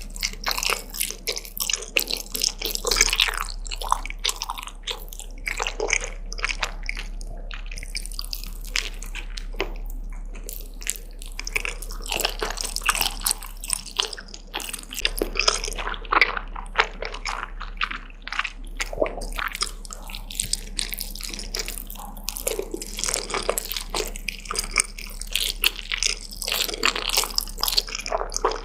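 Close-miked eating sounds: wet chewing, biting and mouth smacks, a dense run of irregular small clicks and squelches.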